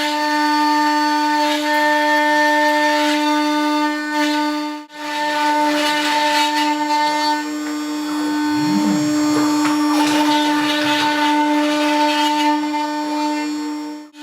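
greenLean vertical CNC router running, its spindle giving a steady high-pitched whine while it mills wood. The sound breaks off abruptly about five seconds in and again at the end. About halfway through, a lower tone rises and falls briefly.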